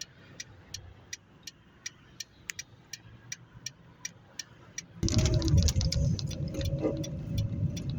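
A car's turn signal clicking steadily, about three clicks a second, in a quiet cabin. About five seconds in, engine and road noise rise sharply as the car pulls away, and the clicking carries on over it.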